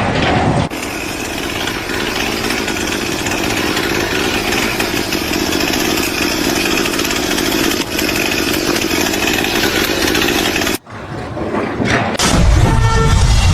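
A motor running steadily for about ten seconds, then cutting off suddenly, followed near the end by a louder low rumble.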